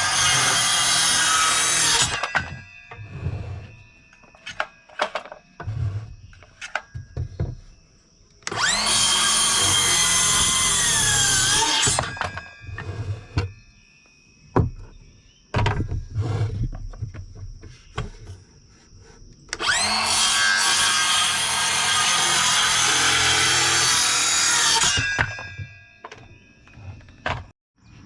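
Power saw cutting 2x4 lumber, three cuts of a few seconds each, the saw winding up at the start of each and stopping sharply. Between the cuts come scattered knocks and clatter of boards being handled.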